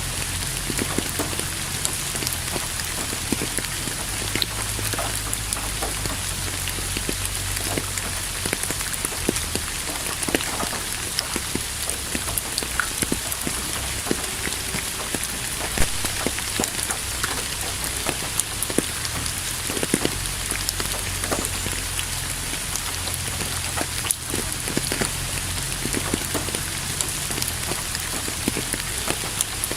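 Steady rain falling: a constant, even hiss with many sharp ticks of individual drops hitting close by.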